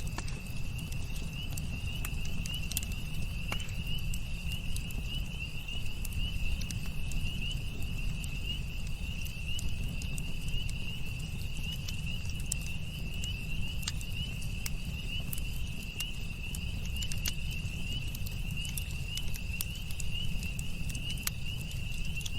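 Campfire crackling, with scattered sharp pops over a low steady rumble, beneath a continuous high trill of night insects.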